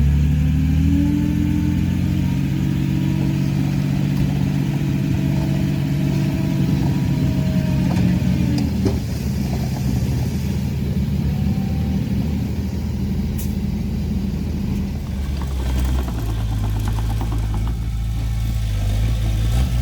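Heavy earthmoving machinery's diesel engine running loudly. It revs up in the first second, holds steady, changes note about halfway through, and settles to a lower, steady pitch near the end.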